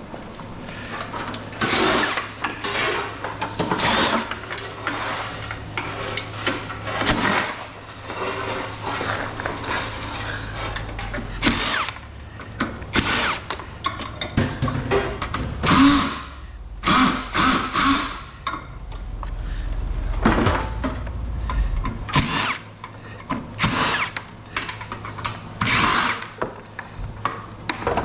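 A power tool running in short bursts amid repeated metal clanks and rattles, typical of scrap air-conditioner units being taken apart, over a steady low hum.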